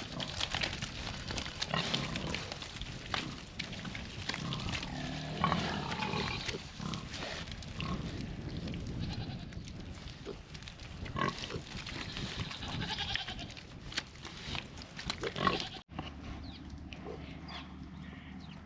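A piglet squealing in repeated bursts as it is caught and picked up, with scattered knocks and rustles from the handling.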